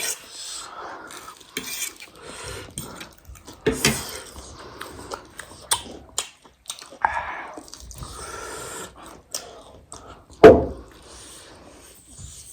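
Tableware clinking while people eat: repeated light clicks of utensils against plates and bowls, with one louder knock about ten seconds in.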